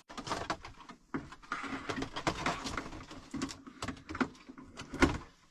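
Handling noise: a run of small knocks, clicks and rustling as parts are moved and fitted by hand, with a sharper knock near the end.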